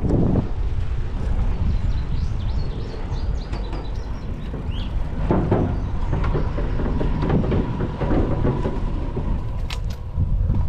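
Wind buffeting the microphone and tyre noise from a bicycle rolling on a paved trail, a steady low rumble. A few short bird chirps sound high above it early on.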